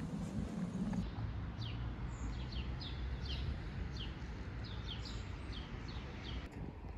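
A small bird chirping: a run of short, high chirps that slide downward, two or three a second, over steady outdoor background noise. A lower, rough sound fills the first second before the chirping starts.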